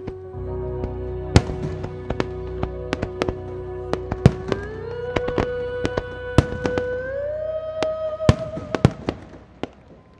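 Fireworks shells bursting in a string of sharp bangs over the show's music, a held chord that steps up in pitch twice. Both die away near the end.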